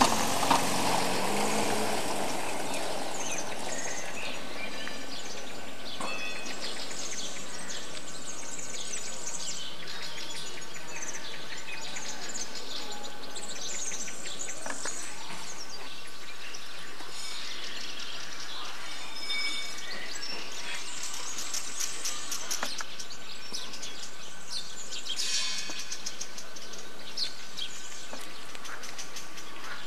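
Small birds chirping in the trees, many brief high calls scattered throughout over a steady hiss.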